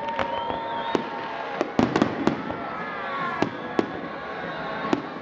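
Fireworks display: about nine sharp bangs from shells bursting at uneven intervals, bunched together around two seconds in, over a steady rumble, with a few thin whistling tones among them.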